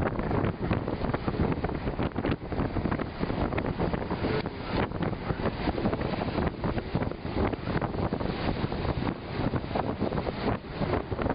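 Strong, gusty wind buffeting the microphone, with rapid irregular bursts of rumble.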